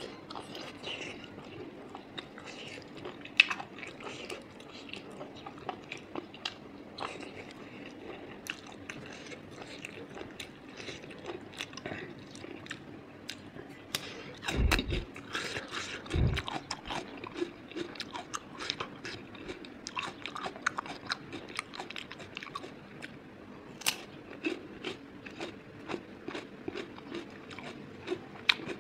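Close-miked wet chewing, lip smacks and mouth clicks of a person eating pork intestine with rice. About halfway through there is a crunchy bite into raw cucumber, with two deep thumps.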